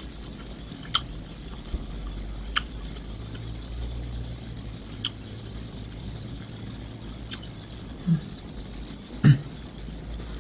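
Wet chewing and mouth sounds of someone eating with a full mouth, with a few sharp lip-smack clicks spaced a couple of seconds apart and two short hums near the end, over a low steady hum.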